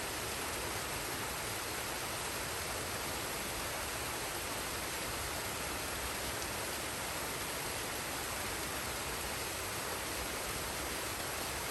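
Forest waterfall and stream water rushing, a steady even hiss with no breaks.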